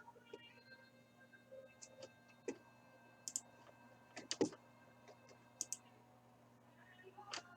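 A handful of scattered sharp clicks and taps, the loudest a double click about four and a half seconds in, over a faint steady electrical hum.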